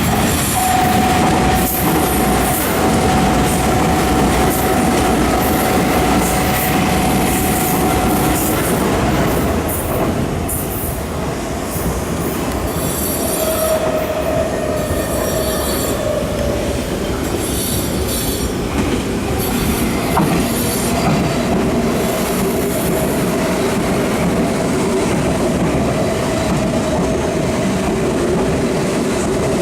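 A Nankai electric train running through the station without stopping. Its wheels squeal in a steady high tone over the rumble and clatter of the wheels on the rails.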